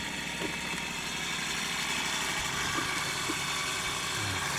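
A steady, unchanging engine-like hum, with a few faint small knocks.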